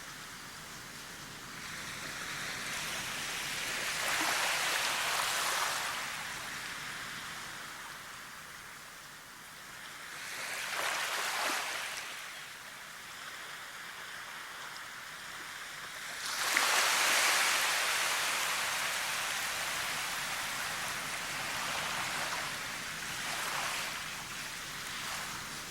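Surf washing in and out as a run of swells that rise and fall, four in all. The third comes in suddenly and is the loudest.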